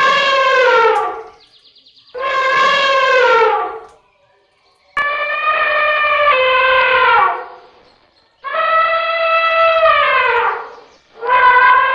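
An animal's long, drawn-out calls, five in a row, each holding a steady pitch and then falling away at the end.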